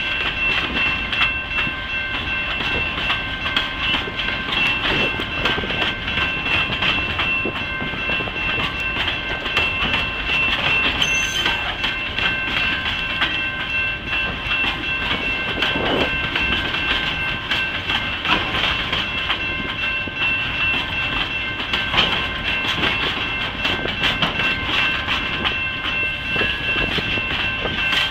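Freight train cars rolling past steadily, their wheels clattering over the rail joints, with a continuous high-pitched ringing tone held over the rumble.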